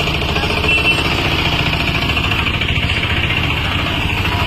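An engine running steadily at idle, with a rapid even beat.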